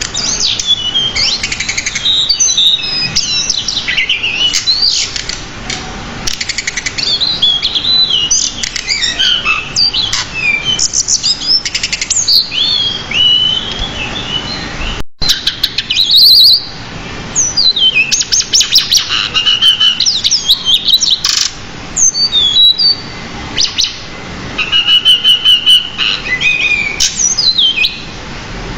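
Pied bushchat (decu) singing continuously: a fast, varied stream of chirps, whistles and rising and falling sweeps, full of borrowed phrases, with a momentary break about halfway through and a buzzy trill near the end.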